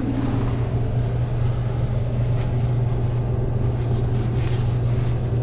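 A toilet refilling after a flush, water hissing through the newly installed fill valve with a steady low hum that sets in at the start and holds.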